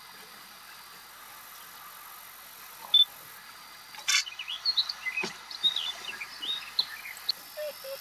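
Birds chirping: one short high chirp about three seconds in, then a quick run of many short high chirps and twitters through the second half, over a steady outdoor hiss.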